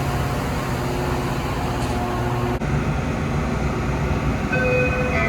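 Train running at the station: a steady rumble with a low engine hum, changing abruptly about halfway through.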